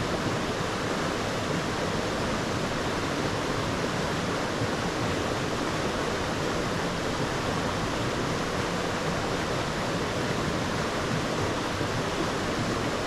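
Small moorland stream rushing steadily over rocks, heard from right in the water.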